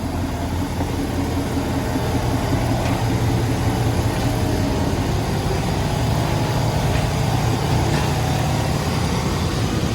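Two-door Chevrolet Tahoe idling with its air conditioning switched on: a steady engine hum under an even rush of air.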